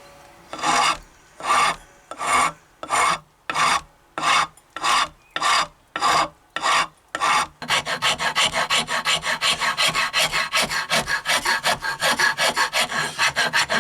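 Hand rasp working a wooden hatchet handle to fit the head. It starts with about ten slow, even strokes, then changes about halfway through to quick, short strokes at about five a second.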